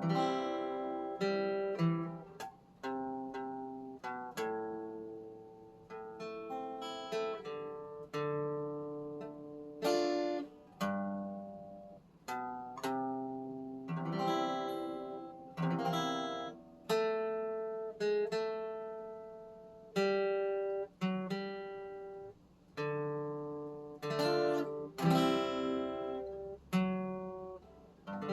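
Acoustic guitar playing an instrumental passage without singing: a steady run of plucked melody notes and chords, each struck and left to ring down.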